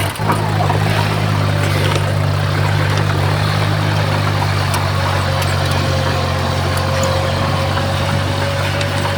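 Heavy diesel engine of earthmoving equipment running steadily, with a faint steady whine coming in about halfway.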